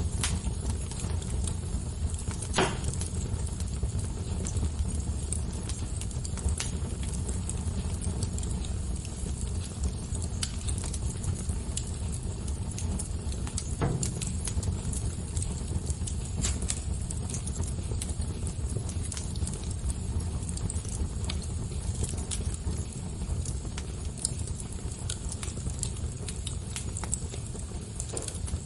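Wood fire crackling steadily, a low rumble of burning with irregular sharp pops and snaps, a louder pop about two and a half seconds in and another at about fourteen seconds.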